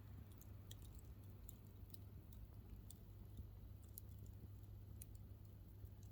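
Wood fire crackling faintly: scattered sharp pops and ticks at irregular intervals over a low steady rumble.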